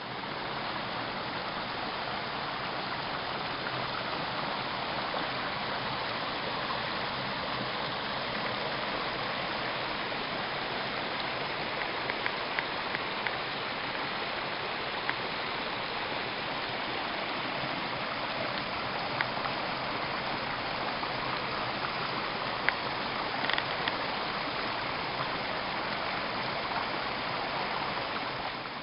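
Steady rushing of running water, like a forest stream, with a few faint ticks over it.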